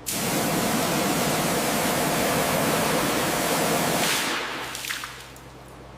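A loud, steady rushing hiss that cuts in suddenly and dies away about four to five seconds in.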